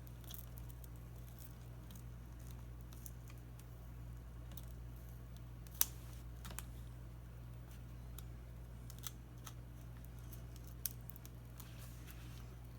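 Scattered small clicks and crackles of a pry tool working the shattered, taped touchscreen glass loose from a tablet's frame, with one sharper click about six seconds in. A steady low hum runs underneath.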